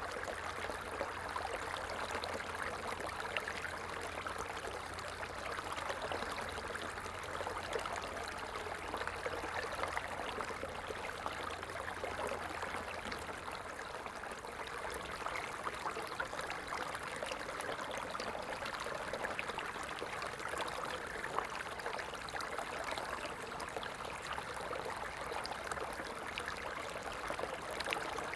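Small stream of running water flowing steadily, an even rushing and trickling.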